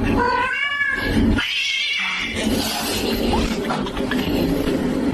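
A cat yowling, one long wavering call in the first second, followed by noisy background sound from the clip.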